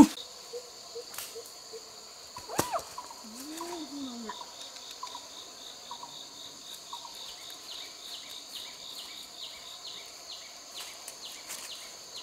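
Chorus of forest insects: a steady high buzz with a fast, even pulsing. A single sharp click comes about two and a half seconds in, and a faint short rising-and-falling call follows just after.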